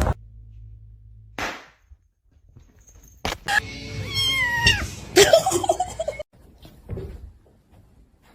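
A domestic cat meowing: one drawn-out call falling in pitch about halfway through, with a few short knocks before it and a noisy scuffle after it.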